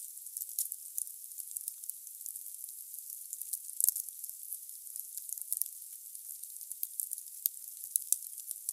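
Wood fire burning in a fireplace: a steady high hiss with irregular sharp crackles and pops of the burning logs, a few louder snaps among them.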